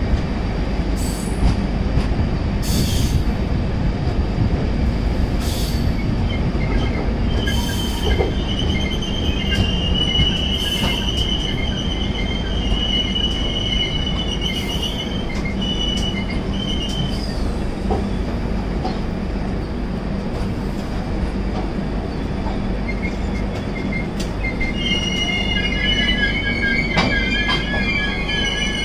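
Passenger train rolling on the rails with a steady wheel rumble, and a high metallic wheel squeal from about seven to seventeen seconds in and again in the last few seconds.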